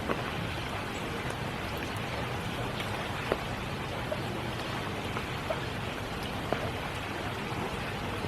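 Steady spring rain falling, with a few louder single drops striking close by, the loudest about three seconds in.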